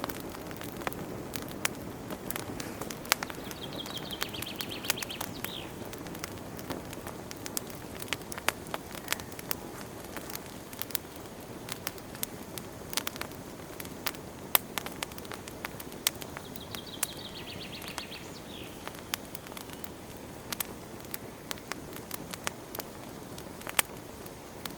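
Wood fire burning in a fireplace: a steady low rush of flames with frequent sharp crackles and pops at irregular intervals. A brief high chirping trill comes twice, about 4 seconds in and again near 17 seconds.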